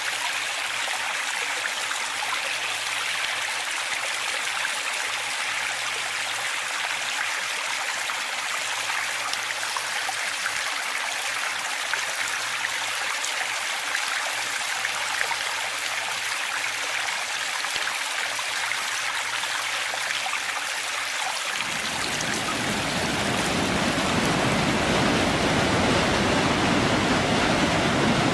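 Steady rushing water, a stream or small waterfall running without a break. About three-quarters of the way in, a deeper rumble joins and it grows a little louder.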